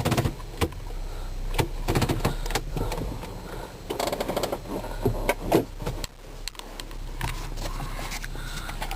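Nissan Pathfinder's 4.0-litre V6 idling, heard from inside the cabin, with a string of clicks and knocks from things being handled. A steady whirr sets in about seven seconds in.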